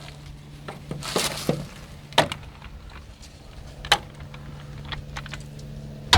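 A clamp being released and the solar panel frame lowered: scattered rustling and sharp knocks of the clamp and frame, with two clear knocks about two and four seconds in.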